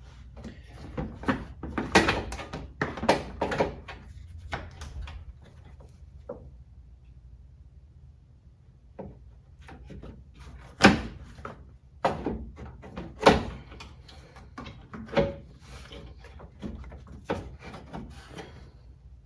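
Irregular knocks, clanks and clicks of hand tools and bolts being handled while a radiator and fan shroud are bolted into a pickup's engine bay, with the sharpest knocks about 11 and 13 seconds in.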